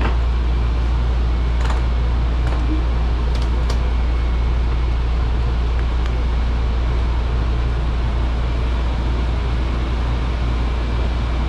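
Steady low rumble and hiss of a moving train, heard from inside the car, with a few light clicks about two to four seconds in.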